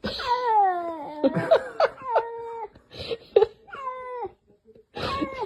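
A cat meowing over and over, a string of drawn-out meows that each slide down in pitch, the first and longest lasting about a second.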